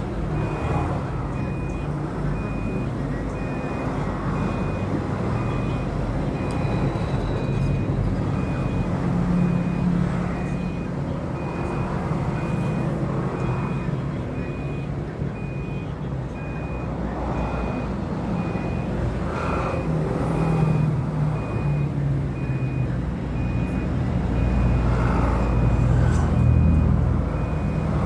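An electronic beep repeating evenly and steadily at one high pitch, like a vehicle's reversing alarm, over a steady low engine-like rumble.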